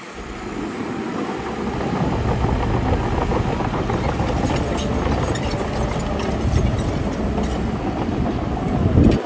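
Heavy earthmoving machine's diesel engine running under load, building over the first couple of seconds and then holding steady. It swells just before it cuts off abruptly near the end.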